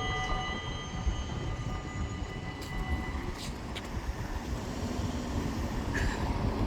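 Train running by, led by an NS Class 186 electric locomotive: a steady low rumble, with a high steady whine that fades out in the first few seconds.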